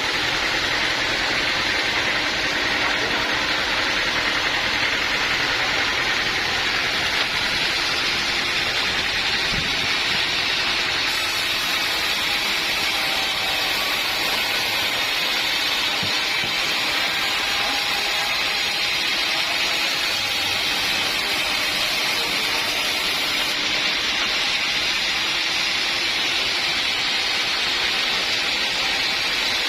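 Sawmill running steadily: a continuous mechanical noise with a strong hiss that does not let up.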